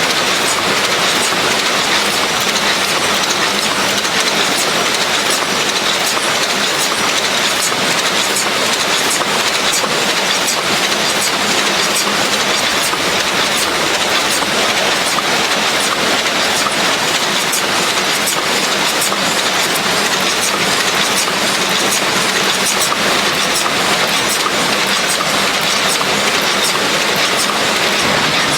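Car cabin air filter production machinery running steadily: a loud, even mechanical din with fast, fine ticking and a faint high whine.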